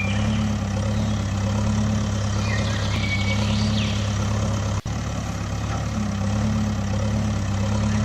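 A steady engine-like drone with an even low hum, like a small vehicle running at idle. About five seconds in it breaks off for an instant, then runs on unchanged.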